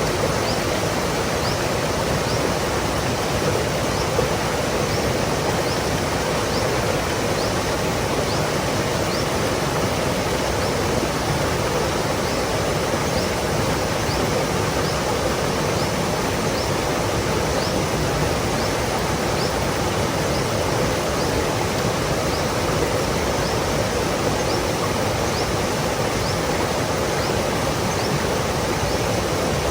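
Stream water flowing and trickling over rocks, a steady rushing with no change. A faint, short, high chirp repeats about once a second throughout.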